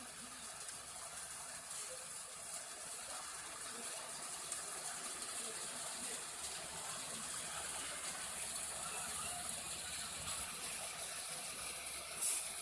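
Steady gushing hiss of a fire truck's water jet spraying under pump pressure, with a brief louder burst near the end.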